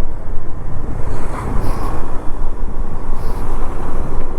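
KTM 390 Adventure motorcycle under way, with a steady low rumble of wind over the camera microphone and engine noise, and two brief hisses partway through.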